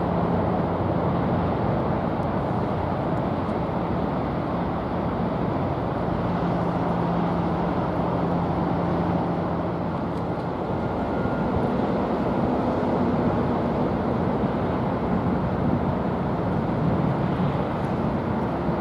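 Steady low rumble of a large ship's engines, with a faint even hum whose pitch shifts slightly about halfway through.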